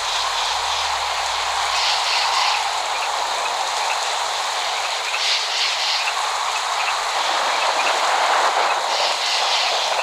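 Steady rain: an even hiss of falling water, swelling a little every couple of seconds, with faint drip ticks.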